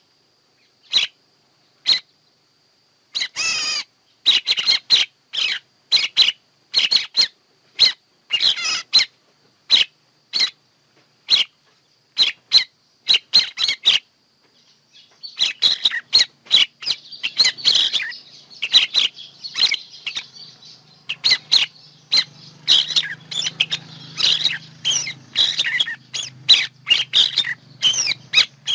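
Songbird calls of the kind used as a lure for bird trapping: short, high chirps in quick succession, sparse with clean gaps at first, then from about halfway a dense run of calls over a faint background hiss and low hum.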